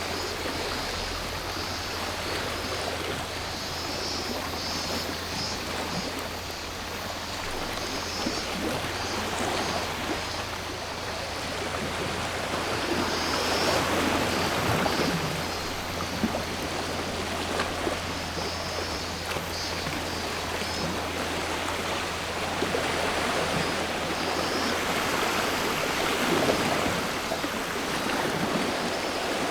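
Sea waves washing onto a shore, swelling about halfway through and again near the end. Over them, cicadas buzz in a high, pulsing chorus.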